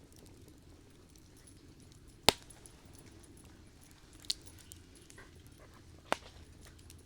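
Campfire burning with a low, steady rumble and faint crackling, broken by three sharp pops of the wood, the first about two seconds in being the loudest.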